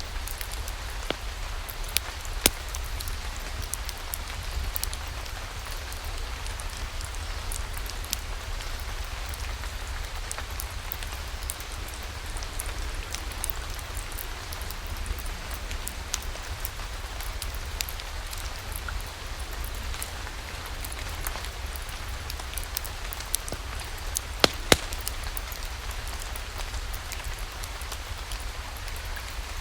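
Steady rain falling, over a low rumble, with a few sharp crackling pops from a wood fire: one early on and two close together near the end.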